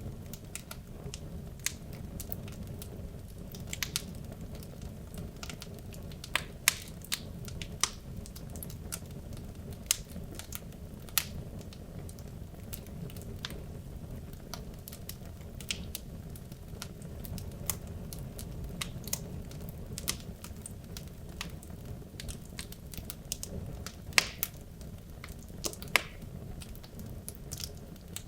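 Wood logs burning in a fireplace: a steady low rumble of the flames with irregular crackles and sharp pops, a few of them loud.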